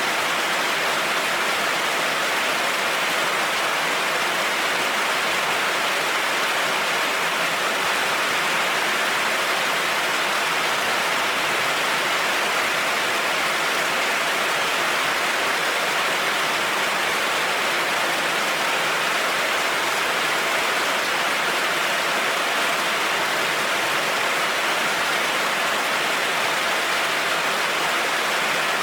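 Heavy rain falling in a steady, even hiss, with no thunder and no change in level.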